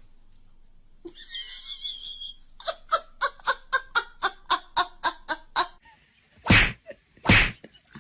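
Laughter in a quick run of short pulses, about four a second, followed by two loud, short bursts.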